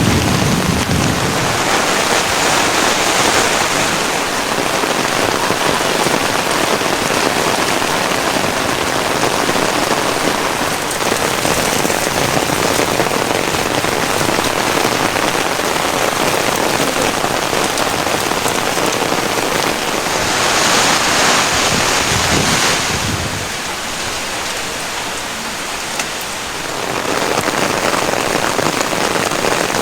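Steady rain falling, swelling louder a few seconds in and again about two-thirds of the way through, then easing briefly near the end.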